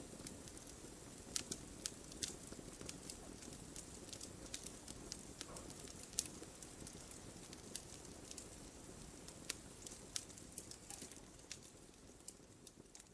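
Logs burning in a fireplace, crackling with irregular sharp pops over a soft low hiss; it grows quieter near the end.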